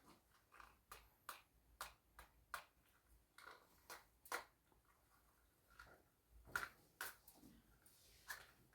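Faint, irregular clicks and light taps, a few each second or so, with a few louder ones in the second half.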